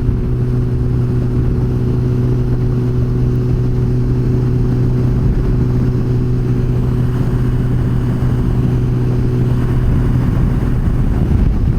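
Yamaha FJR1300 motorcycle's inline-four engine running at a steady cruise, a constant low engine note under wind and road rumble; the engine note eases off a little near the end.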